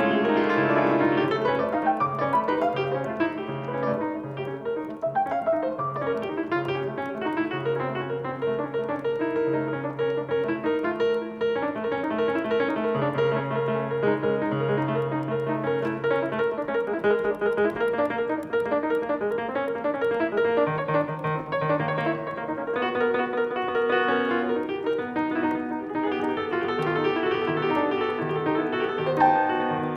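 Solo piano playing continuously: a dense flow of overlapping notes over repeated and held low bass notes, with no break.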